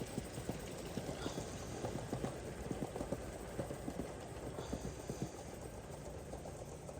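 Gauge 1 live-steam model locomotive running on the track: a fast, uneven clatter of small clicks over a steady low rumble.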